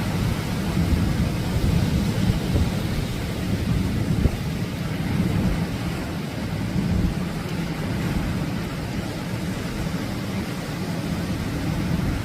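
Atlantic surf washing in on the beach: a steady rushing noise with a deep, fluctuating rumble underneath.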